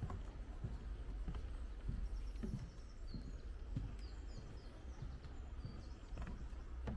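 Footsteps of a person walking at a steady pace, a little under two steps a second, over a steady low rumble. Small birds chirp in short high runs in the middle.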